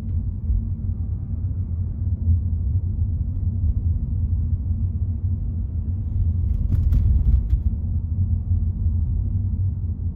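Low, steady rumble of a car driving along a road, with a brief cluster of clicks about seven seconds in.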